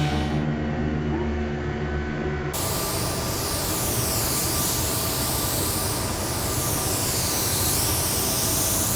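Factory machinery noise. It starts as a steady hum of several tones, then after an abrupt change about two and a half seconds in becomes a loud, steady hiss with a slowly sweeping, whooshing tone.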